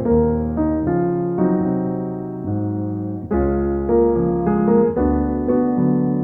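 Soft piano music: sustained chords played over low bass notes, the harmony changing every second or so.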